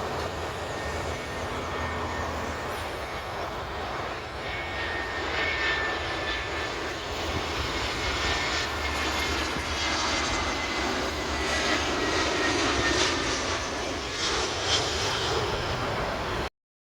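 Jet engines of an arriving passenger airliner passing on its landing approach: a steady rumble with a high whine that slowly falls in pitch. The sound cuts off abruptly near the end.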